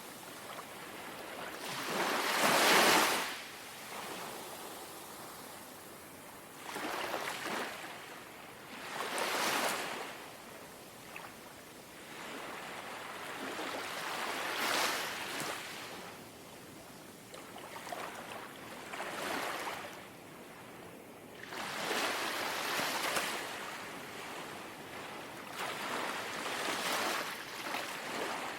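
Small, gentle sea waves lapping and washing ashore, one soft wash every few seconds, the first one about two seconds in the loudest.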